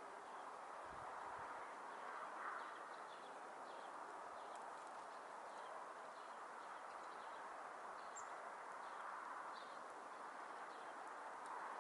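Small songbirds calling with many short, faint, high chirps scattered throughout, over a steady background hiss.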